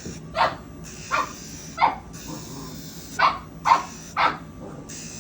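Bullmastiff puppy barking: six short, high barks, three spread over the first two seconds and three more in quick succession a little after the middle.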